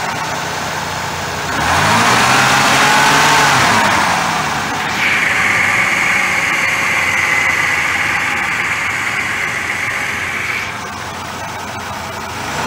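1994 Oldsmobile Ciera's 3100 V6 running, revved once about two seconds in, rising and falling back. A steady high whine comes in about five seconds in and stops near eleven seconds, after which the engine runs at a quieter idle.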